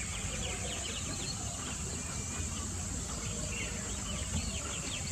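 Outdoor nature ambience: a steady high-pitched insect drone, with birds chirping in quick runs about a second in and again near the end.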